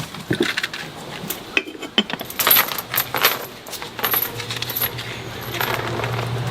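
Repeated light metallic clinks and knocks, like kitchen utensils or dishes being handled. A low steady hum comes in about four seconds in.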